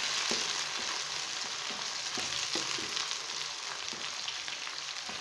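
Sliced onions and tomato pieces sizzling in hot oil in a nonstick karahi while being stirred with a spatula, which knocks faintly against the pan a few times.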